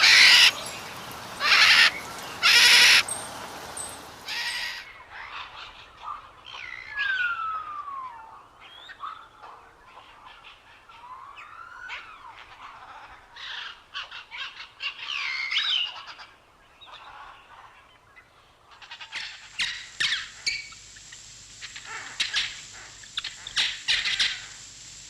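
Harsh, loud bird calls three times in the first three seconds, likely crow caws. These are followed by a mix of smaller birds calling, with whistled notes gliding up and down, and then rapid short chirps in the last few seconds.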